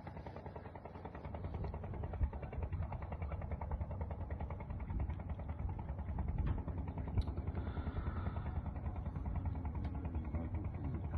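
A small engine running steadily with a fast, even firing pulse, with a single sharp click about seven seconds in.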